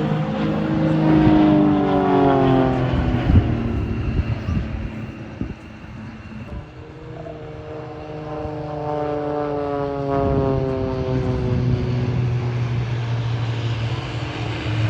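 Propeller aerobatic aircraft flying past, the engine note dropping in pitch as it goes by. The sound fades away about a third of the way in, then builds again with a second pass that also falls in pitch.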